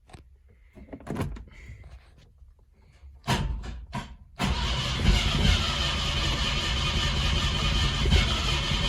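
Izh Kombi's carburetted engine cranked by the starter for about a second, catching about four seconds in and then running steadily on a cold start. A few faint clicks come before it.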